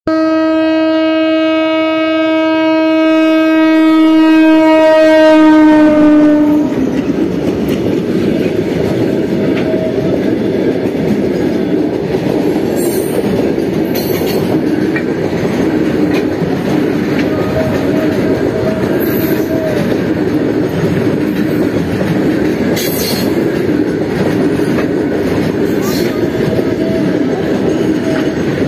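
Diesel locomotive horn sounding one long, growing note for about six seconds, dipping in pitch just before it cuts off. Then a freight train of covered wagons runs past with a steady rumble and the clickety-clack of wheels over rail joints, with a few sharp metallic squeaks or clanks along the way.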